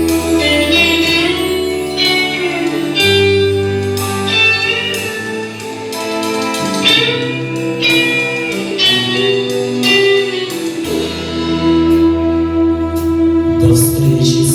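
Live band playing an instrumental passage: a plucked guitar melody over held bass notes, with no singing.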